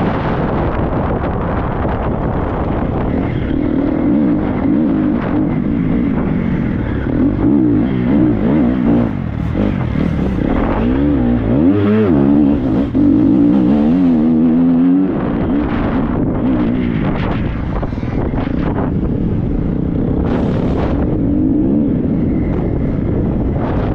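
Triumph 250 motocross bike's four-stroke single-cylinder engine under way off-road, its revs rising and falling constantly as the throttle is worked, with a run of quick rev swings about halfway through. Rough wind and terrain noise on the helmet microphone.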